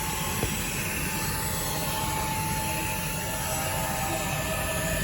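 Xiaomi mini cordless vacuum cleaner running steadily with a high whine from its brushless motor, sucking dirt off a mat.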